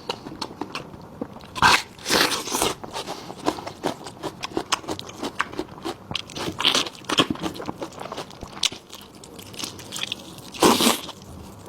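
Close-up mouth sounds of chewing and biting cooked sheep tripe: irregular wet crunching and smacking, with louder bursts about two seconds in, around seven seconds and near the end.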